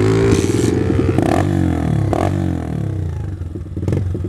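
110cc pit bike engine revving up and down, with a few clunks and clatters in between. The bike is being ridden without a clutch, its clutch lever snapped.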